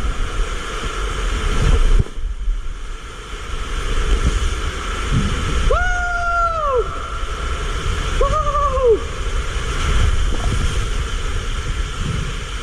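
Water rushing and rumbling as a rider slides down a tube water slide, with a steady loud roar of water and air in the tube. Two short high cries rise and fall about six and eight seconds in.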